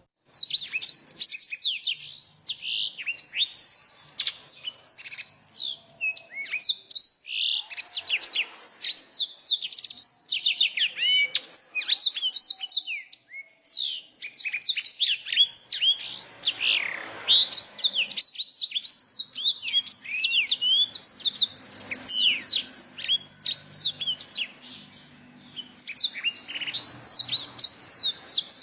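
Songbirds singing a dense, continuous run of quick, high whistled notes that sweep up and down, with only brief pauses. The song is a blend of black-throated canary (blackthroat), bar-winged prinia (ciblek) and yellow-fronted canary (Mozambik).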